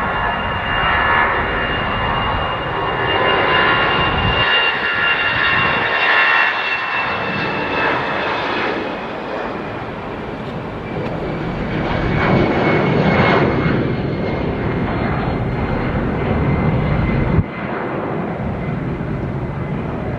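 Jet airliner's engines running as it passes, a loud rumble with a high whine that slowly falls in pitch.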